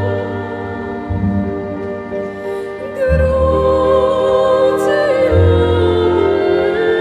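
Classical operatic singing over instrumental accompaniment: a long held melodic line with vibrato, with low accompanying notes changing about every two seconds.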